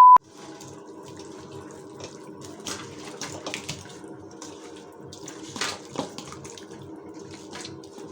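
A short, loud, steady beep, then water running steadily from a tap into a sink.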